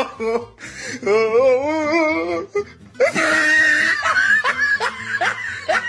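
A person's voice with a long, wavering, sung-like pitch, then, about three seconds in, loud laughter-like rising cries in quick succession over a noisy background.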